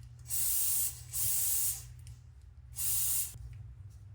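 Aerosol chain cleaner sprayed onto a motorcycle chain in three short hissing bursts, the last one near the end.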